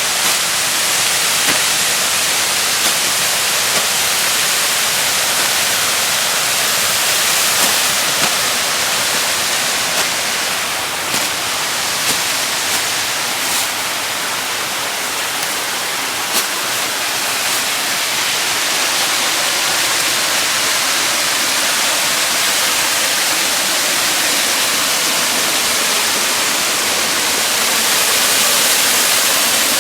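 Small creek waterfall: water pouring and splashing in a steady rush.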